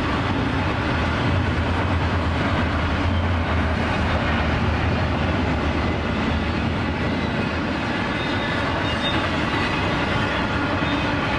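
Double-stack intermodal freight train rolling past, its cars' wheels on the rails giving a steady low rumble.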